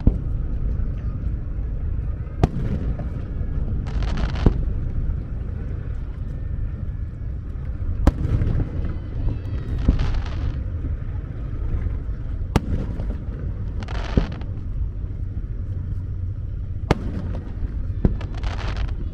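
Aerial fireworks shells bursting: several sharp bangs a few seconds apart, some followed by a short crackling hiss, over a steady low rumble.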